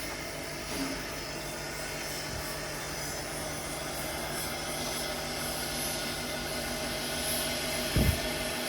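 A steam locomotive standing under steam, giving off a steady hiss and hum with a few held tones. There is a short low thump about eight seconds in.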